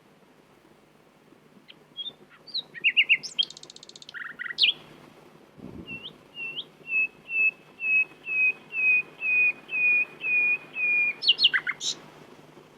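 Common nightingale singing: a couple of seconds in, a few varied chirps and a short trill, then a run of about a dozen repeated whistled notes, ending in a quick flourish near the end.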